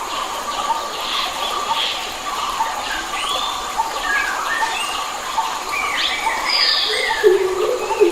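Several wild forest birds calling and singing at once: short whistled notes that glide up and down, with a lower, held call coming in near the end, over a steady background hiss.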